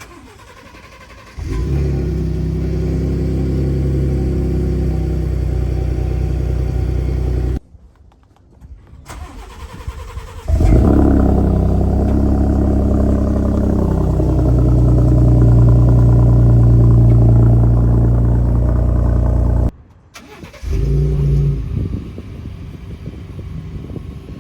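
Gen 2 Ford Raptor's 3.5-litre twin-turbo V6 through a Roush exhaust, started up three times in cold and warm starts. Each start catches with a loud flare and then holds a steady, bassy idle. The last one settles to a quieter idle soon after the flare.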